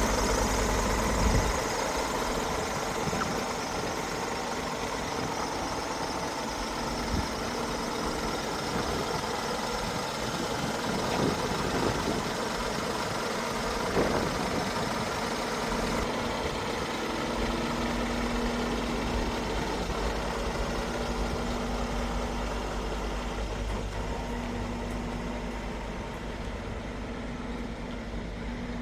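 Scania R500 V8 truck engine running steadily, its note and low rumble changing about a second and a half in and changing back at around seventeen seconds, with a few short knocks along the way.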